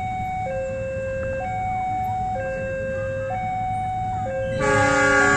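Railway level-crossing warning alarm sounding its two alternating tones, switching about once a second, signalling that a train is approaching. Near the end a train horn starts, louder, as a chord of several tones.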